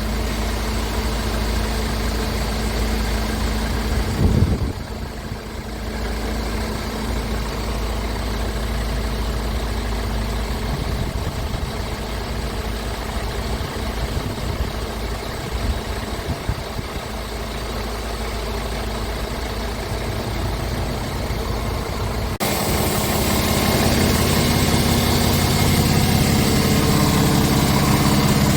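Scania R500 tractor unit's diesel engine idling steadily. About two-thirds in the sound changes to a louder, steadier hum.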